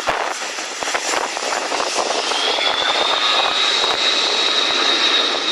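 Aircraft engines running loud with a rushing roar as water-bomber planes skim a lake to scoop water; about two seconds in a high whine rises slightly and then holds steady.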